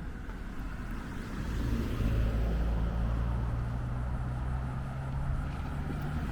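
A motor vehicle's engine running close by: a low, steady hum that grows louder about a second and a half in, holds, and eases off near the end.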